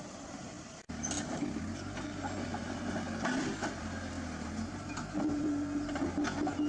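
A machine running steadily with a low hum and scattered metallic clicks. The sound cuts out briefly about a second in.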